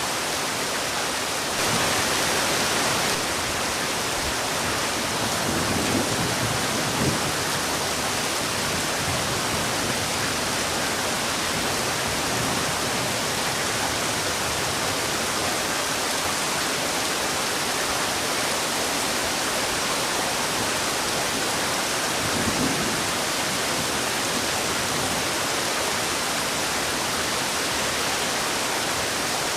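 Heavy rain falling steadily, a dense even hiss, briefly a little louder about two seconds in.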